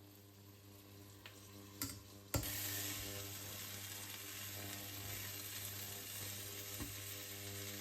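Food hitting hot oil in a pan and frying: a sudden loud sizzle starts a little over two seconds in and keeps going steadily, after a couple of light clicks.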